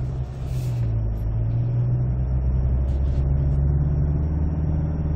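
Engine and road drone of a 2007 Hyundai Santa Fe diesel, heard inside the cabin while cruising. The steady hum rises slightly in pitch about three and a half seconds in.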